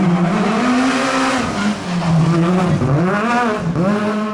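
Rally car engine at high revs on a special stage, its pitch dropping sharply and climbing again three times as the driver shifts or lifts off the throttle.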